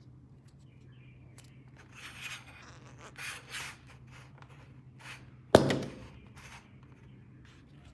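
Hands handling plastic toy pieces and packaging, with scattered rustles and scrapes and one sharp plastic click or snap about five and a half seconds in.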